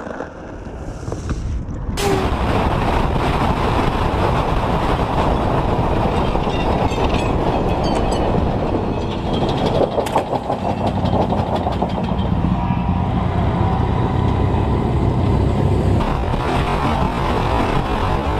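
Steady, loud road noise of a vehicle travelling at speed, engine and rushing air together. It cuts in abruptly about two seconds in, with a sharp click around ten seconds.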